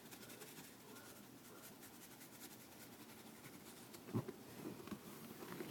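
Faint scratching and light tapping of a cockatiel's claws as it climbs and shuffles on a surface, with a soft thump about four seconds in.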